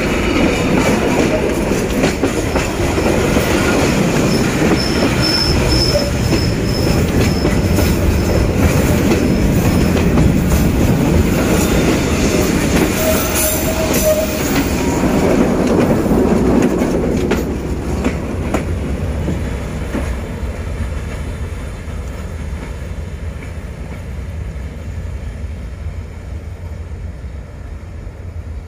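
Freight train wagons rolling past close by, a loud steady rumble and clatter of wheels on rail, with a brief high wheel squeal about five seconds in and a lower one near the middle. The sound fades over the last ten seconds as the train draws away.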